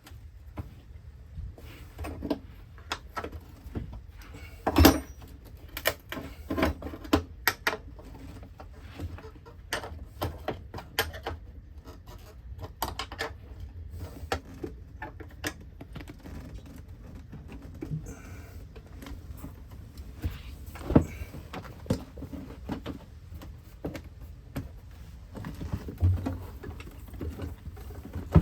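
Scattered clicks, knocks and clunks of hand work on a 1971 VW bus's shift plate and gear linkage, with one sharp knock about five seconds in, over a faint steady low hum.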